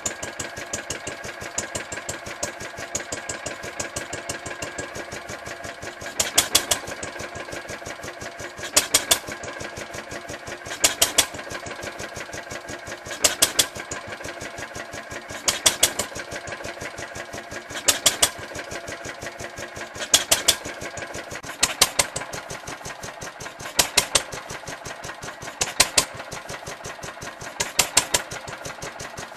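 Ruston & Hornsby PT stationary engine running with a steady fast mechanical clatter. From about six seconds in it fires in bursts of three or four loud strokes every two seconds or so and coasts between them, the hit-and-miss pattern of its governor.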